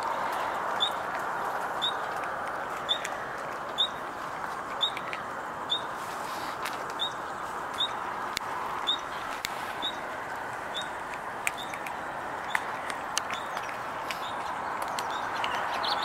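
A small bird giving a short, high chirp about once a second, evenly repeated, over steady background noise.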